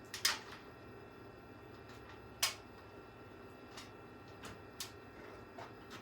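Irregular sharp clicks and taps of small hard parts, about six of them, the loudest near the start and about two and a half seconds in: screws, panels and a screwdriver being handled while a PC case is assembled.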